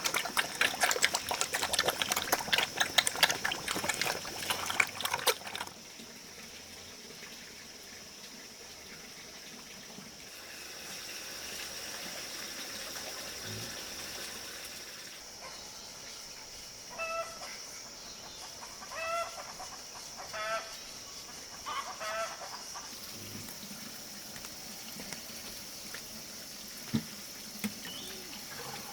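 A dense patter of clicks for about the first five seconds, then a steady high hiss, with a chicken giving four short clucks in the middle.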